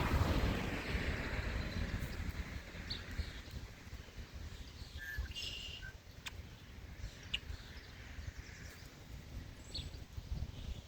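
A rushing noise fades away over the first few seconds, then a few short, scattered bird chirps sound over quiet outdoor background.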